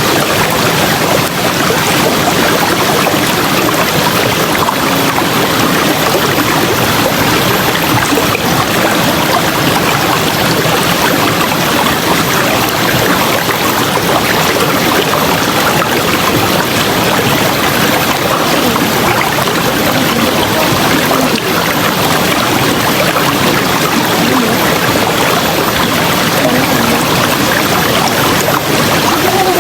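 River water rushing and splashing over rocks in a steady, loud, unbroken wash.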